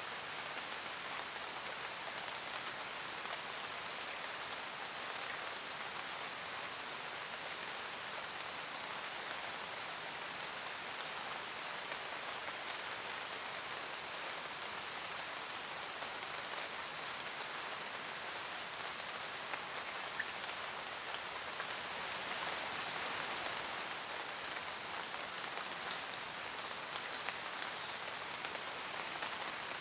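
Steady rain falling in a forest, an even hiss of raindrops with scattered individual drips, swelling slightly in intensity about two-thirds of the way through.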